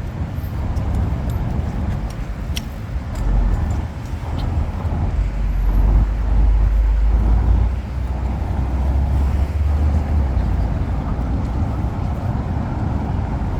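City street traffic: a steady low rumble of cars that swells as a vehicle passes close, loudest about halfway through, then settles back.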